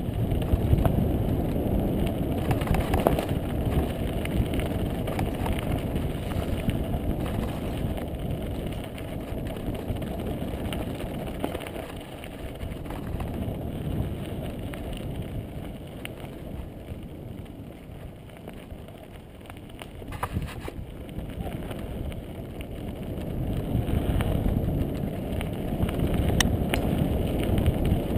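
Mountain bike ridden along a dirt singletrack trail: a continuous rumble and rattle of tyres and bike over the ground, mixed with wind on the microphone. A few sharp clicks or knocks come through. The noise eases off past the middle and builds again near the end.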